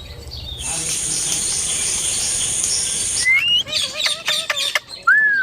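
Indian ringneck parrot vocalizing. A steady hiss lasts about two and a half seconds, then comes a quick run of chirps and clicks, and near the end a whistle that dips and then rises.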